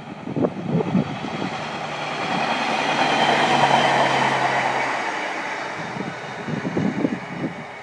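A train passing close by: wheels clacking over rail joints, with a steady low engine hum and rushing rail noise that builds to a peak midway and then eases off.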